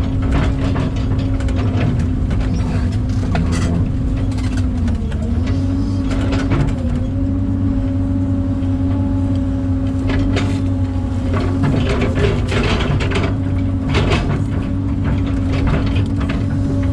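Excavator's diesel engine and hydraulics running under load: a steady hum that sags briefly a few times, with repeated clanks and knocks from the machine at work.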